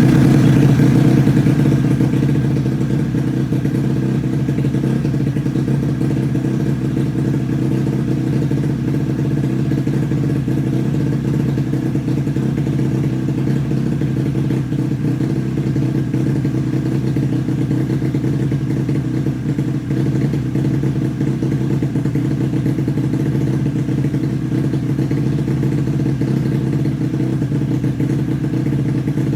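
The engine of a CEPE 50 running steadily, a little louder for the first two seconds before it settles.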